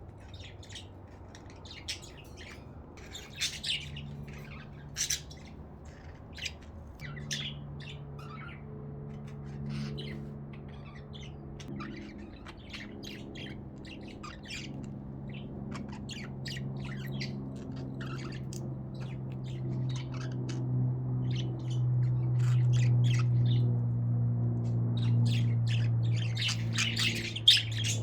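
Budgerigars chirping and squawking in short, rapid calls throughout. Under them a low, steady droning hum sets in after a few seconds and grows louder through the second half.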